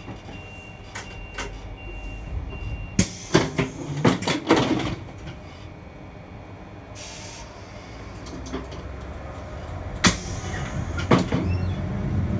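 Train standing at a platform and then starting off. A high warning beep sounds in short pieces at first. A series of loud knocks and clunks follows about three to five seconds in, then a brief hiss of air. A low rumble builds as the train begins to move, with another knock about ten seconds in.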